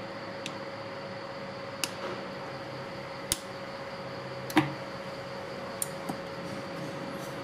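A handful of separate sharp clicks and clinks, the loudest about four and a half seconds in with a short ring after it, over a steady background hum: tools and metal parts being handled during repair of a stick welding machine.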